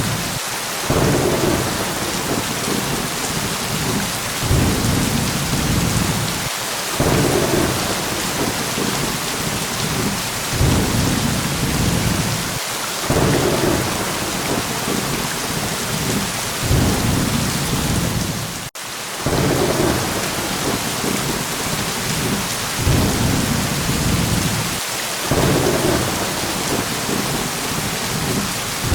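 Thunderstorm: steady heavy rain hiss with low thunder rumbling and swelling again every couple of seconds, and a momentary drop-out about two-thirds through.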